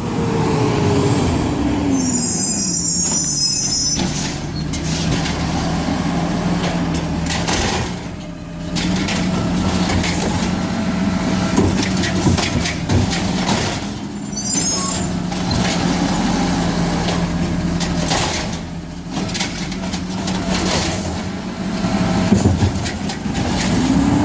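Garbage truck engine running: its pitch drops as it slows at the start, then holds steady. A brief high-pitched brake squeal comes about two seconds in, with scattered clanks and rattles throughout.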